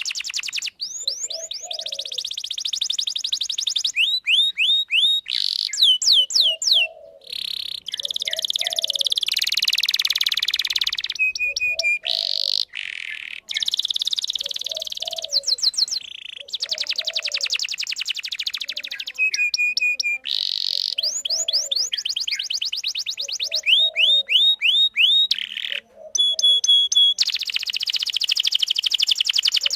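Domestic canary in full, long song: fast trills, quick runs of falling whistled notes and buzzy rolls, one phrase after another with only short breaks. A soft lower note repeats about every two seconds beneath it.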